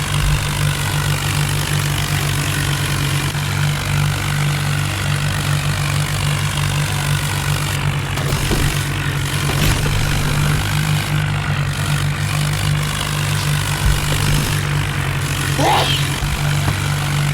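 Tractor diesel engine running steadily with a deep, even drone and no change in pitch.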